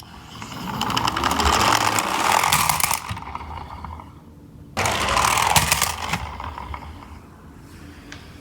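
Toy garbage truck minicar whirring as its little motor drives it along, in two runs: a long whir that builds and fades, then a second, shorter one that starts suddenly about five seconds in and winds down.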